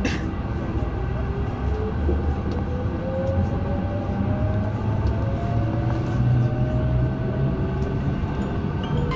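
MI09 train on RER line A running between stations: the electric traction motors whine, slowly rising in pitch as the train gathers speed, over a steady rumble of wheels on track. A short click comes right at the start.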